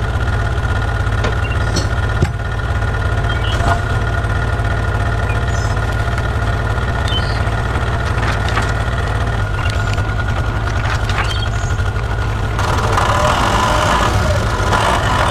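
Heavy vehicle engine running steadily with a low rumble and light clicks, growing a little louder and brighter near the end.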